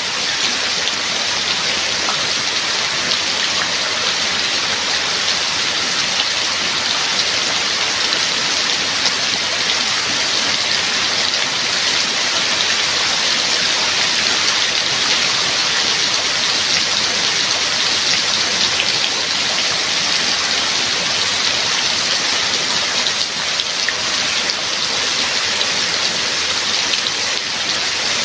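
Steady heavy rain: an even hiss of rainfall with many small drop impacts, unchanging in level.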